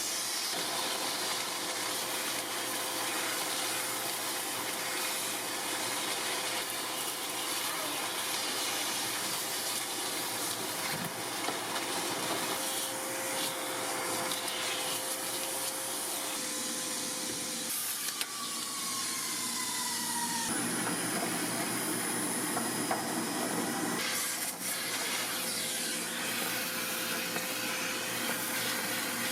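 Vacuum cleaner running steadily with a rushing hiss and a held hum. Its sound shifts a few times as the nozzle is moved, with a short falling whine just past halfway.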